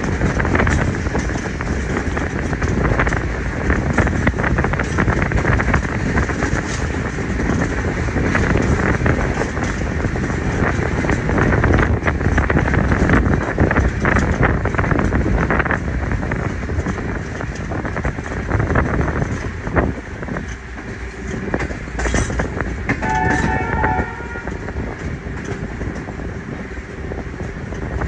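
Passenger train running at speed: a steady rumble and rattle of the coaches, with the clatter of wheels over the rails, easing a little in the last third. A short horn toot sounds about 23 seconds in.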